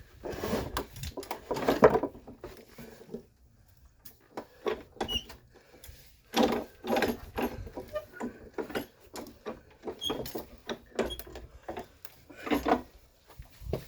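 Irregular knocks and clanks of hand tools and metal suspension parts being handled, in short clusters with quiet gaps between.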